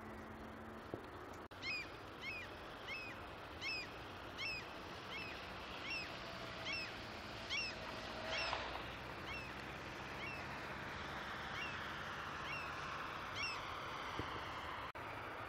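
A bird calling over and over, about fifteen short falling notes a little more than one a second, over a steady outdoor hiss.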